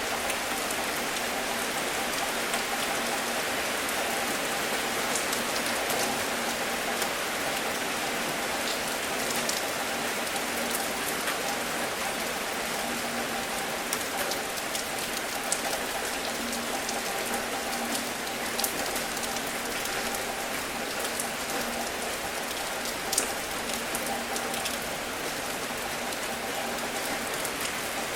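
Gentle rain falling steadily on a surface: an even hiss with scattered sharper drip ticks.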